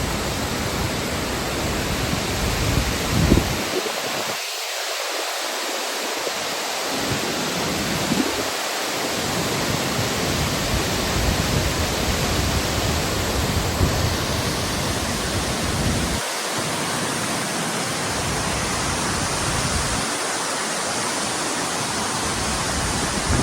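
Large waterfall: a steady, loud rush of falling water. The deep rumble underneath drops out several times.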